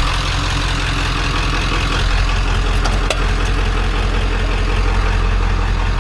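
A vehicle engine idling steadily, with two brief light clicks about three seconds in.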